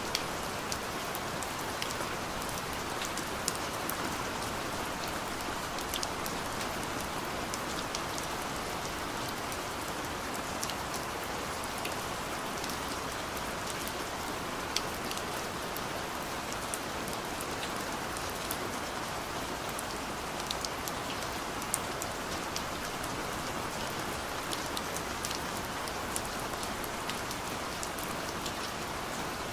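Steady rain falling on a car, heard from inside the cabin: a continuous hiss with many scattered sharp ticks of drops striking.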